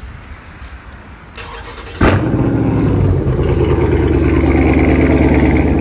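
A car engine and exhaust come in loud and suddenly about two seconds in, then keep running steadily with a deep, even drone.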